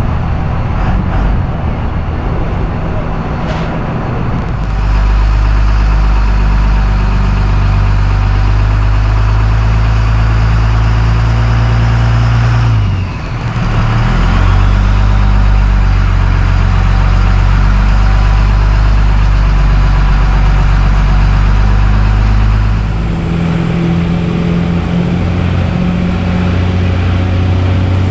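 Motor vehicle driving at a steady speed: engine drone and road noise with a steady low hum, dipping briefly about halfway through and easing near the end.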